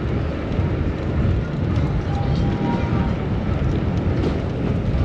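Steady rushing noise of wind buffeting the camera microphone on a moving bicycle, mixed with city street traffic.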